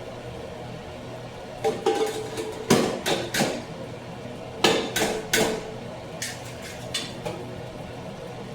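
Kitchen cookware and utensils clattering: a run of sharp knocks and clinks, about a dozen, in quick clusters through the middle, fainter near the end.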